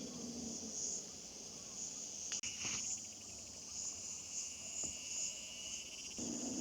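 A steady, high-pitched chorus of insects chirring in the countryside. A low, steady hum starts near the end.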